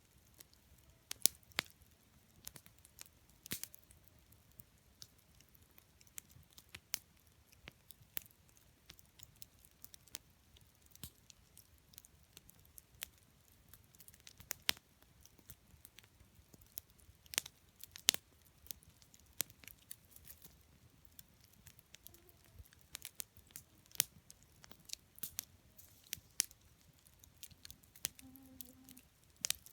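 Wood campfire crackling: irregular sharp pops and snaps, a few louder than the rest, over a faint low hiss of burning.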